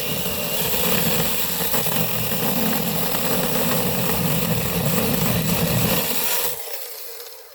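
Mini chainsaw running with a steady whine as its chain cuts a notch into a log. About six and a half seconds in it winds down and stops.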